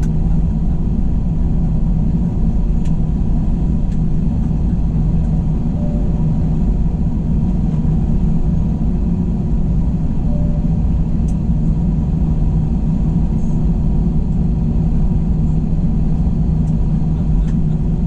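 Airbus A321 jet engines and airflow heard inside the passenger cabin as a steady, loud low rumble with a constant hum.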